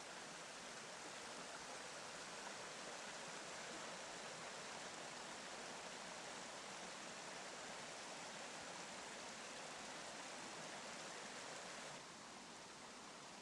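Steady rushing noise of flowing water, dropping slightly in level near the end.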